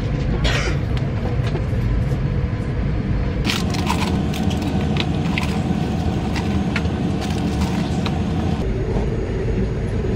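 Steady low rumble of a Boeing 787-9 airliner cabin, with crinkling and clicking of plastic packaging being handled from about three and a half seconds in until near the end.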